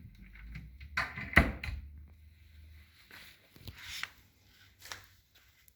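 Wooden push-to-open cabinet door on the side of an electric fireplace being pressed and worked, giving a few sharp knocks and latch clicks, the loudest about a second and a half in.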